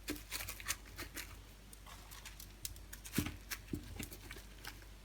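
Soft, scattered taps and rustles of hands handling and setting down small filled pastry parcels in a container, with a few slightly louder knocks around the middle.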